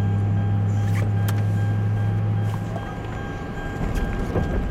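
Steady low hum of an idling car heard from inside the cabin, which dies away a little over halfway through as the engine is switched off. A few sharp clicks, and a rougher low rumble remains after.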